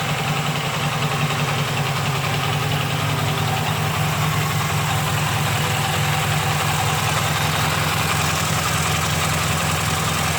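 K750M motorcycle's side-valve flat-twin engine idling steadily.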